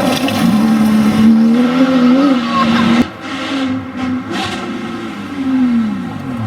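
Porsche 911 GT3 RS flat-six engine running hard at high revs. About halfway through the sound cuts abruptly to a quieter engine, whose pitch falls steeply near the end as the car lifts off or passes.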